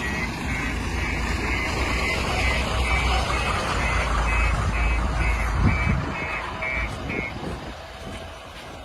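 A reversing alarm beeping steadily about twice a second over the low running of heavy diesel engines; the beeping stops about seven seconds in and the engine noise eases soon after.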